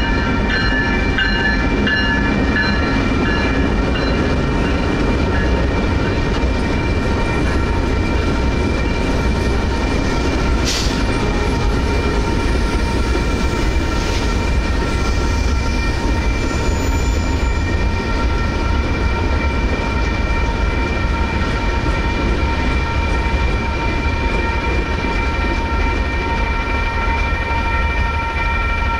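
Railroad crossing bells ringing steadily over the low rumble of a slow freight train passing, led by EMD GP22T4 locomotives and followed by boxcars. A couple of short metallic clanks come from the cars about a third and halfway through.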